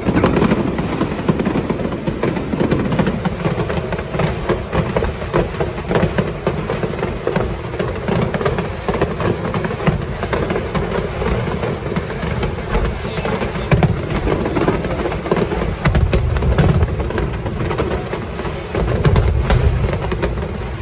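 Aerial fireworks: a dense, nonstop barrage of shells bursting, with sharp bangs and crackling crowding one on another, louder again near the end.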